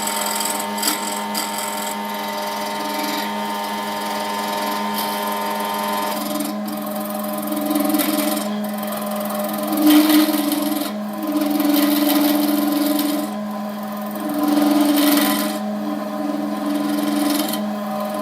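Wood lathe running with a steady motor hum. From about six seconds in, a turning tool bites into the spinning wood and epoxy blank again and again, in cutting passes of a second or two each.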